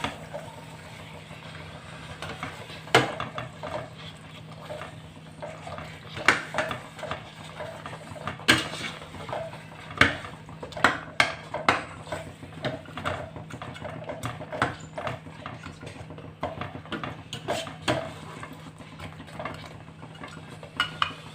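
A utensil stirring a pot of curry, clinking and knocking against the pot in irregular strokes, some sharp and loud, over a steady low hum.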